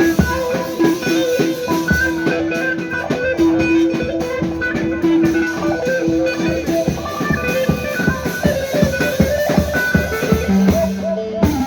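Instrumental Yozgat ağırlama folk music: a rapidly plucked string instrument over drums, with a long held melody note in the first half.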